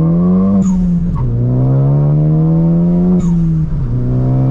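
Turbocharged Ford Focus ST engine under full-throttle acceleration, revs climbing steadily through a gear, dropping sharply at an upshift about a second in, climbing again and shifting once more near the end. A brief high hiss sounds at the top of each climb as the throttle lifts for the shift.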